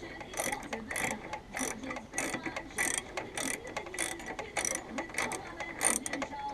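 Ratchet spanner clicking in short, even strokes, about one and a half a second, as the bolt holding the float bowl on a lawnmower carburettor is undone.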